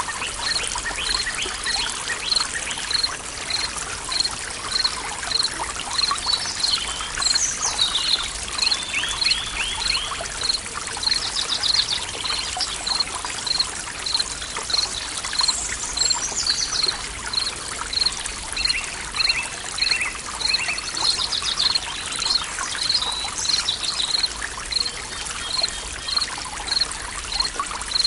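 Forest ambience: a stream trickling steadily, with several birds calling and trilling, and a high chirp repeating evenly about one and a half times a second. A steady low binaural-beat tone runs underneath.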